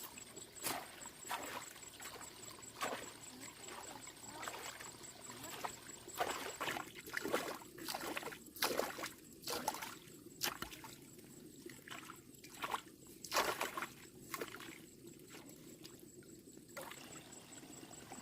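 Water splashing and trickling in irregular splashes, some louder than others, over a faint steady wash of water.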